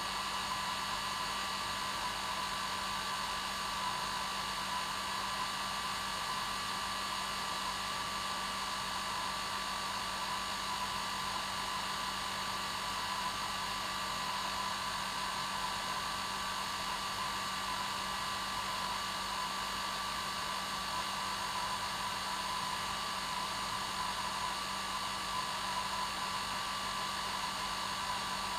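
Hair dryer running steadily: a constant whoosh of blown air with a steady motor hum and a high whine, no change in speed.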